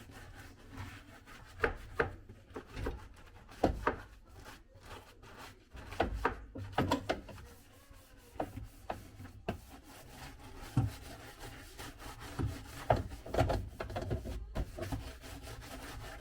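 Sponge scrubbing a dishwasher's rubber door seal: irregular rubbing strokes with occasional sharper knocks.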